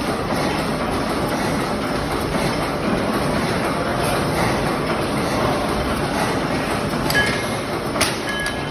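An engine running steadily, with two short metallic clinks near the end.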